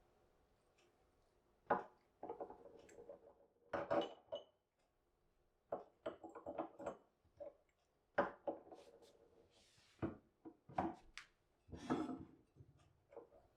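Dishes and other household objects being handled and set down: an irregular series of clinks and knocks, with a few sharper knocks among softer clatter.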